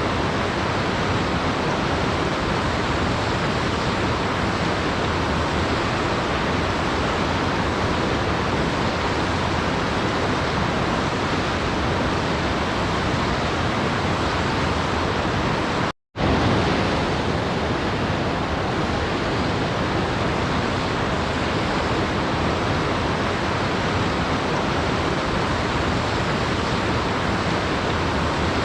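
Waterfall rushing with a steady, even roar of falling water. A little past halfway it cuts out completely for a split second, then comes straight back.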